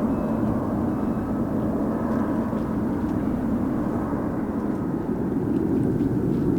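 Jet airliner on approach to land, its engines giving a steady rumble with a faint high whine.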